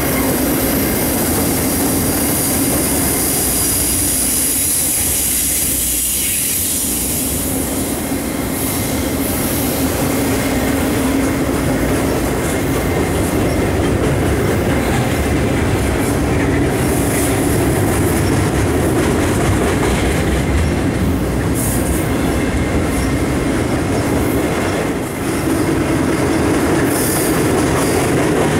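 Freight train of flatcars loaded with wind-turbine tower sections rolling past: a steady rumble of steel wheels on rail. A high hiss in the first few seconds gives way to scattered clicks as wheels cross rail joints.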